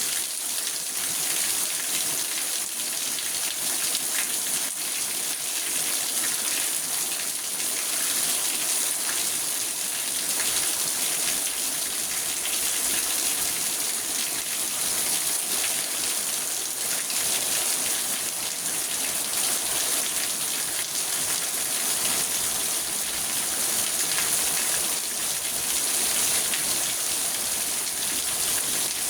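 Steady rain falling on a car's roof and windows, heard from inside the car, an even hiss with scattered drop ticks.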